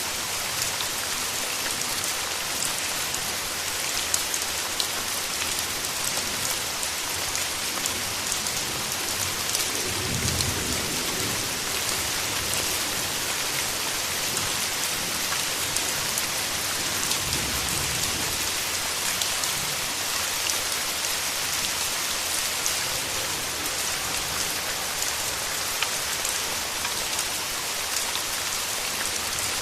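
Steady rain with a dense patter of drops. Two low rumbles come through, one about ten seconds in and one near seventeen seconds.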